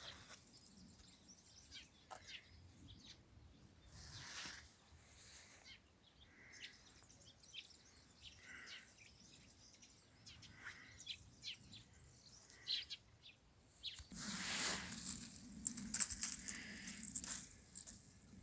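Songbirds chirping in short calls every couple of seconds over a quiet background. About fourteen seconds in, louder crackling and crunching starts, as of footsteps through dry undergrowth.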